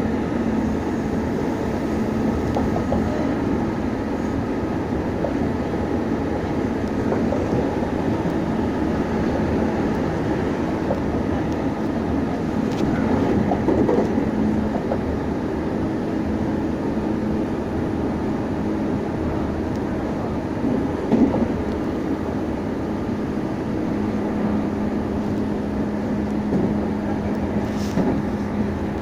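Running sound inside a Meitetsu 6500 series electric train under way: a steady rumble of wheels on rail with motor hum tones that change pitch as it goes. There is one brief louder knock past the middle.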